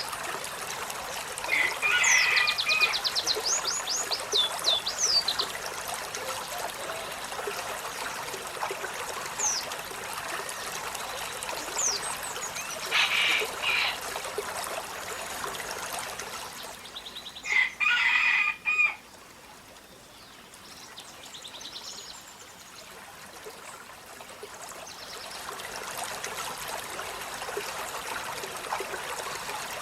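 Olive-backed sunbird singing: rapid high trills and sweeping notes, broken by three louder harsh chattering calls, over a steady trickle of running water.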